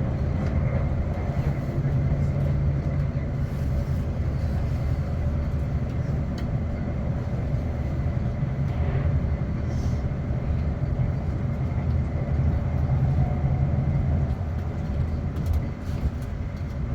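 Inside a Class 450 electric multiple unit: a steady low rumble of the train's running gear and motors, with a faint steady hum above it.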